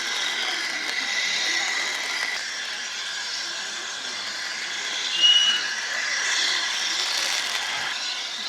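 The steam locomotive Flying Scotsman, an LNER A3 Pacific, pulling slowly away from a stand with a steady hiss of steam. A brief high steady tone sounds about five seconds in, the loudest moment.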